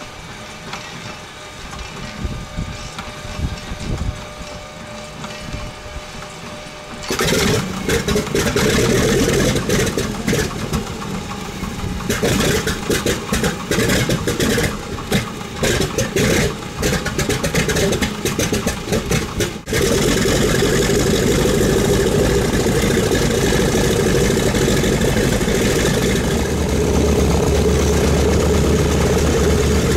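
Radial piston engine of a DC-3 being started. The starter cranks unevenly for several seconds. About seven seconds in the engine catches with rough, irregular firing. After about twenty seconds it settles into a steady run.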